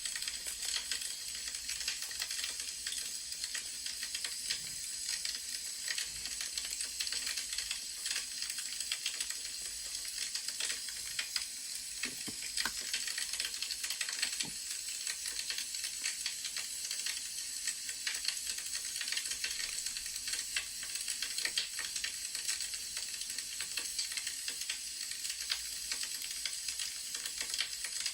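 Wood fire crackling: a steady hiss with many small snaps and pops, and a couple of faint soft knocks near the middle.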